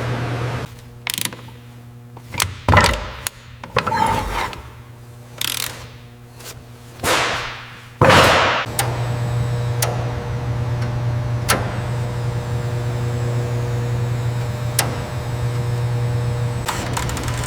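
Mechanical workshop sounds: irregular clicks, ratcheting and scraping of tools and parts. About eight seconds in comes a loud sudden sound, and then a steady low hum like an engine running, with a few sharp clicks over it.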